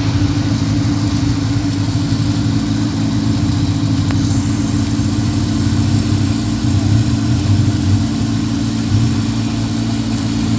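A vehicle engine idling steadily, swelling slightly a few times near the end.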